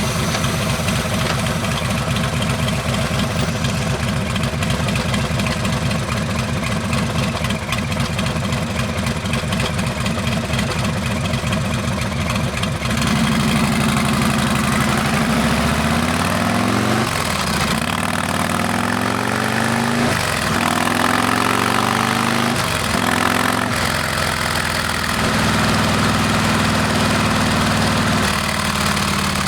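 Harley-Davidson Milwaukee-Eight V-twin running through a Rinehart exhaust: it idles steadily, then about halfway through pulls away, revving up and dropping back about three times as it shifts up through the gears, and settles into a steady run near the end.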